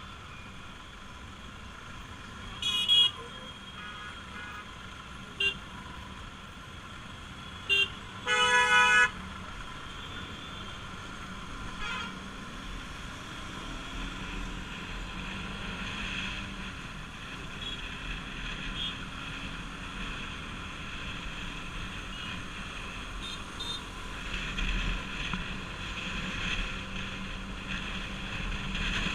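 Bajaj Pulsar RS200 single-cylinder motorcycle riding through traffic, its engine and wind noise steady and getting louder in the second half. Several short horn toots cut through in the first ten seconds, the longest and loudest lasting under a second about eight and a half seconds in.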